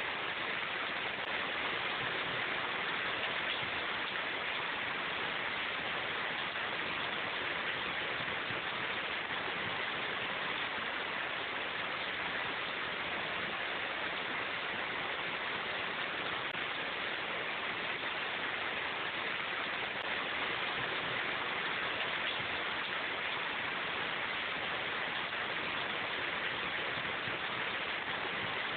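Steady rain falling in a forest: an even, unbroken hiss with no single drops or other events standing out.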